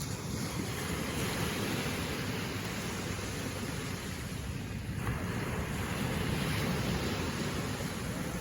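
Steady rush of wind and waves, with wind buffeting the microphone; a little louder about halfway through.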